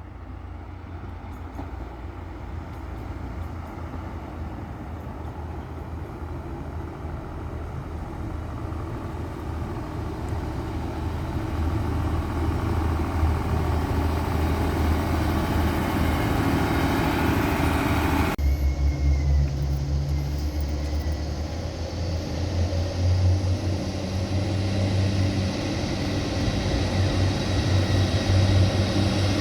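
Northern Ireland Railways Class 3000 diesel multiple unit running, a low engine rumble and rail noise growing steadily louder as it comes near. About eighteen seconds in, the sound cuts abruptly to a steadier low engine rumble.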